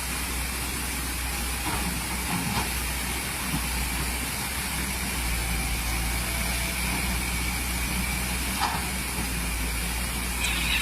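Excavator's diesel engine running steadily with a constant hiss over it, and a few light knocks scattered through.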